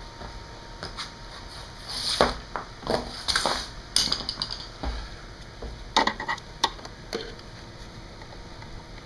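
Screwdriver tips scraping and clicking against a small painted cap and the surrounding metal as the cap is pried out of its hole in the strut tower. The sound comes as scattered scrapes and sharp metal clicks, bunched about two to four seconds in and again around six to seven seconds.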